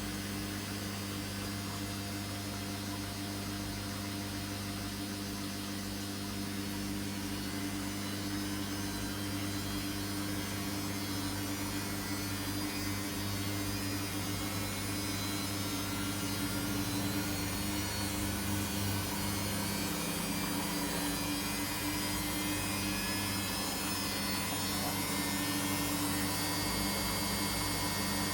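Samsung washing machine running, a steady electric motor hum with a faint whine above it that gradually grows louder.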